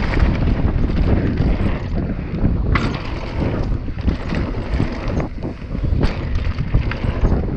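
Wind buffeting the microphone over the rumble of a downhill mountain bike running over a dirt trail, with scattered sharp knocks and rattles from the bike.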